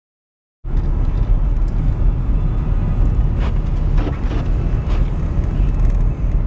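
Car driving, a steady low rumble of engine and road noise that starts abruptly about half a second in.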